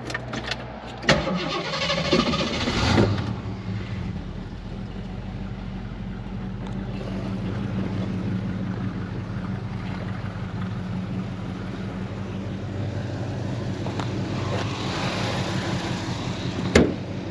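1968 AMC AMX's 390 V8 cranked by the starter for about two seconds, catching about three seconds in and settling into a steady idle. A sharp click comes near the end.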